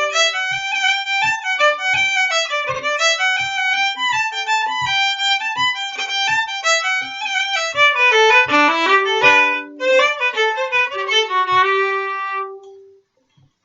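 Solo fiddle playing a fast Irish reel in quick even notes, over a steady low thump on the beat. It ends on a held note about twelve and a half seconds in.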